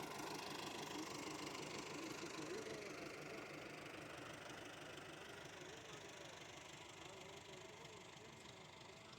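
Tractor engine running steadily, its pitch wavering a little, and slowly fading as it draws away.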